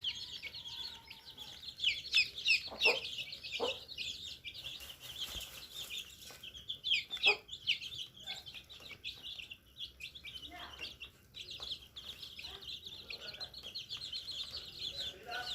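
Chickens clucking amid a steady stream of short, high-pitched chirps, with louder calls about two to four seconds in and again around seven seconds.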